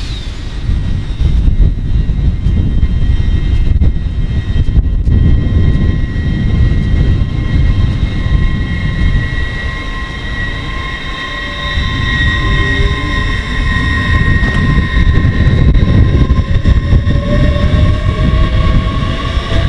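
GWR Class 800 train pulling out, its drive giving a whine of several steady tones, a lower one climbing slowly in pitch as the train gathers speed. Under it is a gusty low rumble of wind on the microphone.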